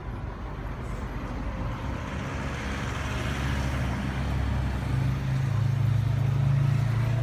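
A car engine running with a low, steady note, getting gradually louder.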